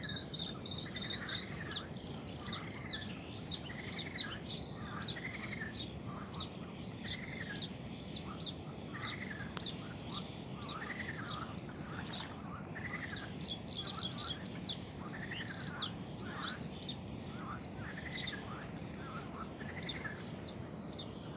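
Birds singing: one repeats a short arched note about every second and a half while others give quick high chirps, over a steady low hiss.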